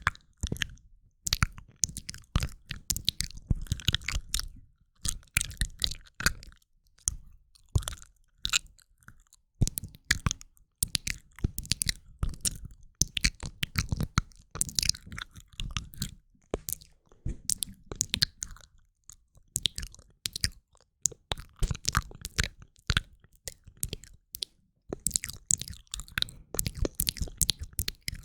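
A woman's ASMR mouth sounds: wet clicks and smacks in quick clusters, broken every few seconds by short pauses.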